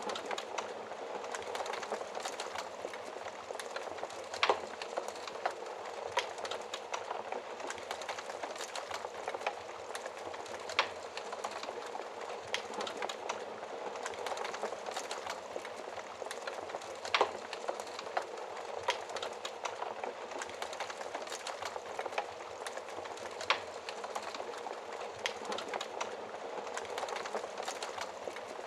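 Wood fire crackling in a fireplace: a steady hiss of small crackles, with a louder pop every six seconds or so.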